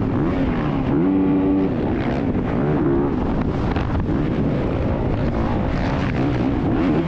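Motocross dirt bike engine being ridden, its pitch rising and falling repeatedly as the throttle is opened and closed, with wind noise on the microphone.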